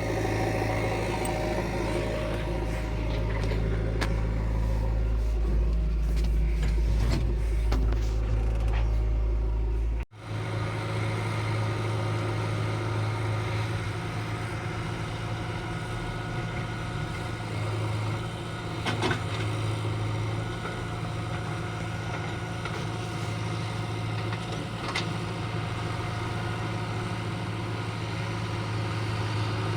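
Heavy diesel engine of earth-moving machinery running steadily. The sound breaks off abruptly about ten seconds in and resumes with a slightly different engine note.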